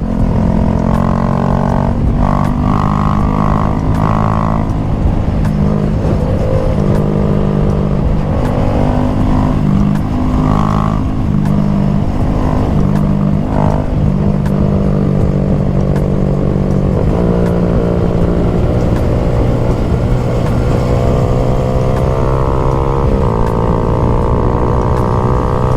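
Honda Grom motorcycle engine running hard through a series of corners, its pitch climbing and dropping repeatedly with throttle and gear changes.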